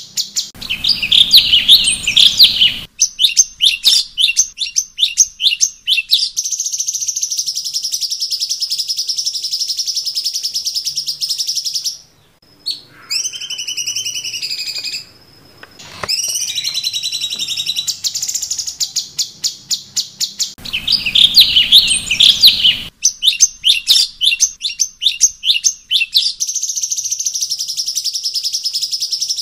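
Cucak cungkok songbird singing: fast runs of sharp, high chirps alternating with long, steady, buzzy high trills. About 12 s in there is a brief pause, then a few clear whistled notes. About 20 s in the chirp run returns.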